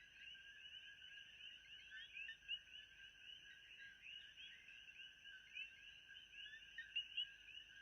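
Faint nature-ambience chorus: many small calling animals giving overlapping short chirps, with a thin steady high hiss above them. A few single chirps stand out louder, about two and a half seconds in and near the end.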